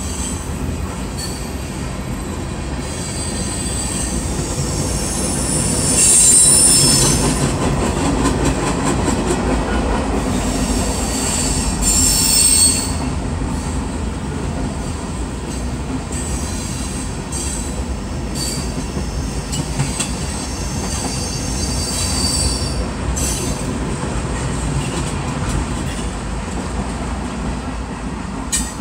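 Freight train of covered hopper cars and tank cars rolling past: a steady low rumble of steel wheels on rail, with high-pitched wheel squeal coming and going, loudest about six seconds in and again about twelve seconds in. The rumble drops off near the end as the last car goes by.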